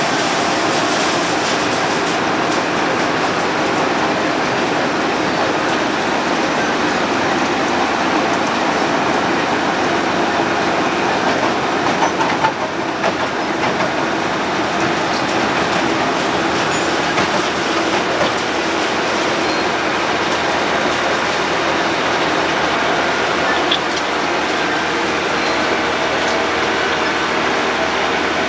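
Road planer (cold milling machine) running steadily, its cutting drum milling off the asphalt road surface in a continuous loud grinding clatter.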